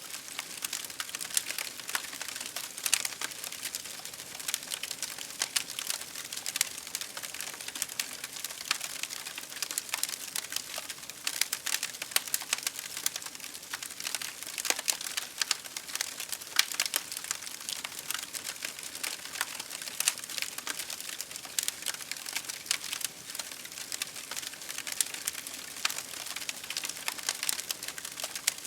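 Wood campfire crackling: dense, irregular pops and snaps over a steady hiss.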